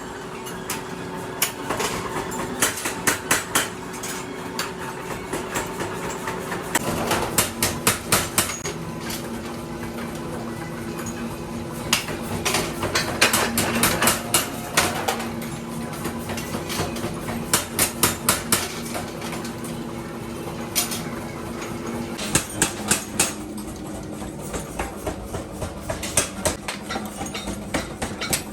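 Metal being struck again and again in quick runs of blows, over the steady hum of a workshop machine that changes pitch a couple of times.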